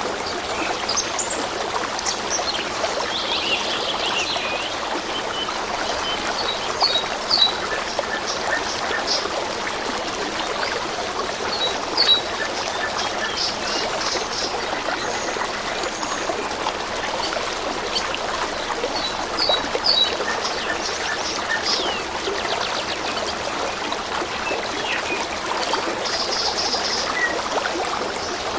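A small stream trickling steadily, with songbirds chirping over it in short runs of quick high notes every few seconds.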